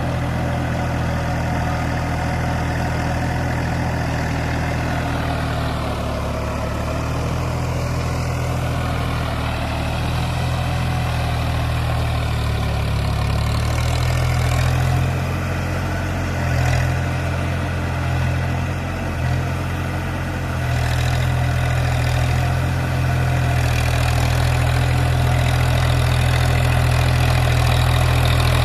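Massey Ferguson tractor's diesel engine running steadily, its note wavering and dipping a few times in the middle before settling and rising slightly near the end.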